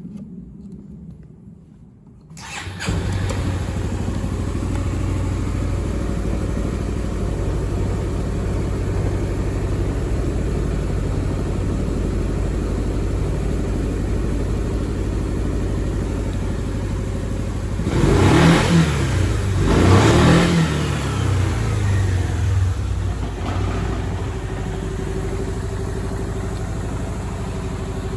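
2004 Yamaha Grand Majesty 250 (SG15J) scooter's single-cylinder four-stroke engine starting about two seconds in and idling steadily. About two-thirds of the way through it is revved twice, the pitch rising and falling each time, then settles back to idle.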